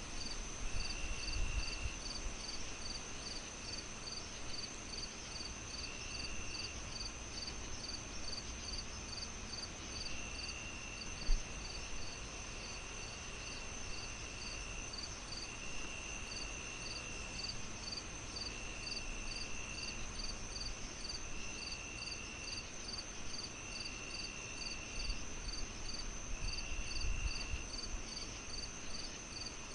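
Night crickets chirping steadily in a regular pulse of about two to three chirps a second over a continuous high trill, with lower buzzing calls coming in and out about a second at a time. A low rumble sits underneath, and a single sharp pop sounds about eleven seconds in.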